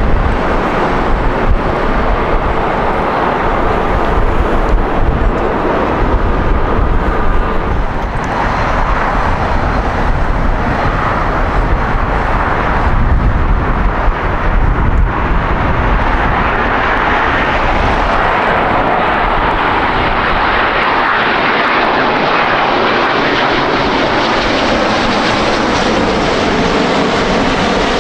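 Jet airliner engines heard close up, a continuous loud noise with a heavy deep rumble for the first half. From about two-thirds of the way in, the low rumble fades and a higher, hissing engine sound takes over.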